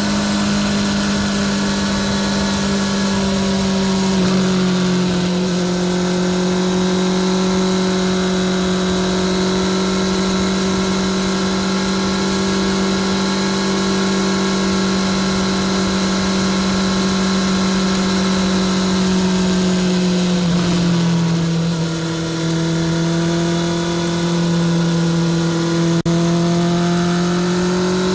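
Honda CBR650R inline-four engine through a Spark full titanium short exhaust, pulling at steady revs under way. About three-quarters through the revs drop and hold lower, then climb again near the end.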